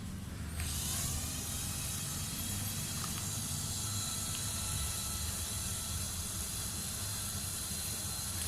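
A small electric motor, the grinder head that drives a home-made fishing-rod repair machine, switches on about half a second in and runs steadily with a hiss and a steady whine.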